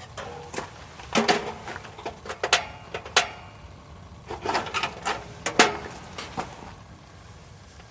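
A series of irregular knocks and clinks from camp gear being handled, some ringing briefly like metal cookware, thinning out near the end.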